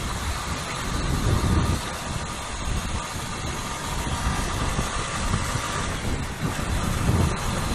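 CPI DTR 150 motorcycle engine idling amid slow city traffic, with the steady rumble of other vehicles' engines around it.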